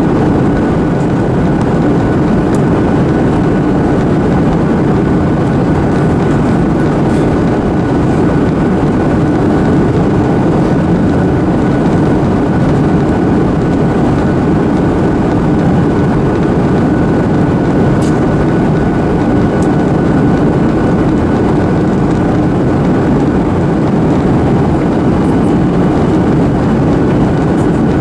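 Steady cabin noise inside a Boeing 737-800 in descent: a constant rush of airflow and CFM56 engine noise, with a faint high steady whine running through it.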